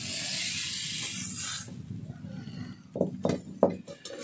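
Hot oil sizzling in a steel kadai as fried pointed gourd pieces are tipped and scraped out onto a plate; the hiss dies away about halfway through. A few sharp knocks follow near the end.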